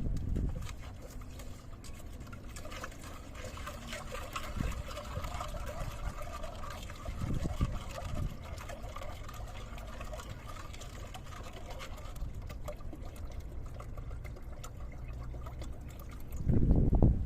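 Liquid pouring or trickling steadily for several seconds, over a low rumble of wind on the microphone.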